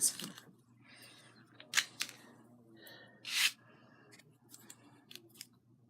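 Small handling noises of craft work on a table: two short, sharp scraping strokes and a few light clicks.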